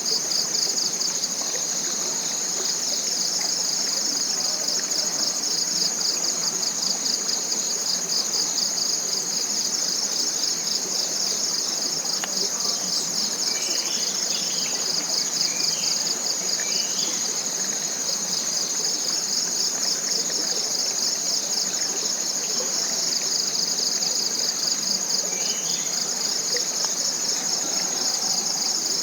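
Steady, high-pitched chorus of forest insects, a rapid pulsing trill that never lets up. Faint short bird chirps come in around the middle and once near the end.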